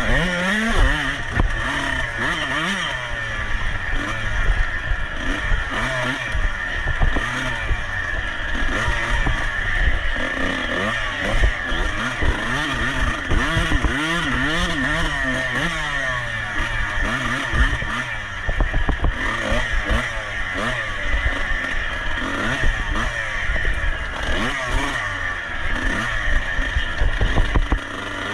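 Racing motorcycle engine being ridden hard, its pitch rising and falling over and over as the throttle opens and closes through the gears, with scattered knocks and clatter.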